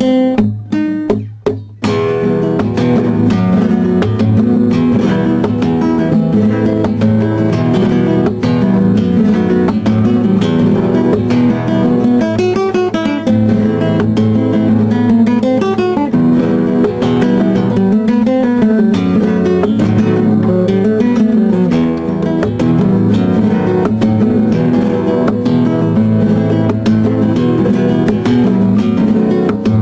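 Acoustic guitar music, strummed and plucked in a flamenco style. A few separate chords ring out in the first two seconds before steady playing begins.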